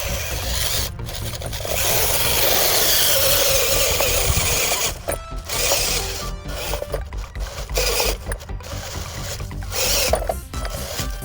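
A small DC-motor RC tractor running under load, its gearbox and wheels grinding and scraping over gritty dirt, with irregular breaks in the noise. Background music plays underneath.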